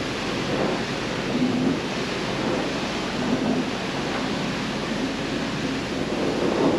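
Water spraying from a wash hose, rinsing mud off the rear of a truck camper: a steady rushing spray.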